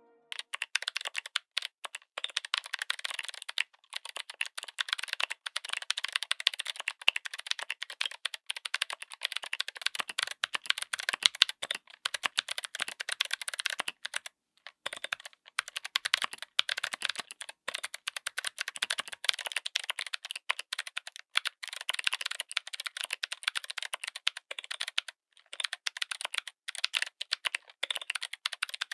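Fast continuous typing on a mechanical keyboard with clicky switches, a dense stream of sharp clicks. It stops for a moment a few times.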